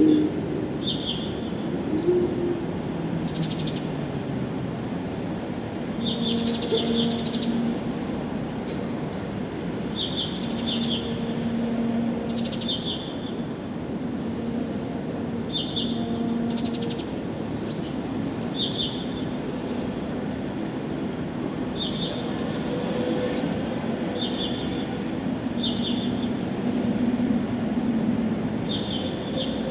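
Small birds chirping, with short high calls repeating every second or two throughout, over a steady low background rumble.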